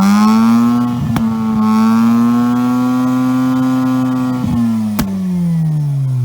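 Two-rotor Renesis rotary engine of a 1980 Mazda RX7 race car at high revs under full throttle, holding a high, buzzing pitch. The pitch falls away steadily over the last two seconds.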